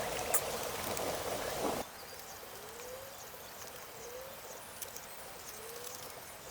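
Steady outdoor noise that cuts off about two seconds in, followed by a quieter background in which a short, low, up-and-down animal call comes three times, about a second and a half apart.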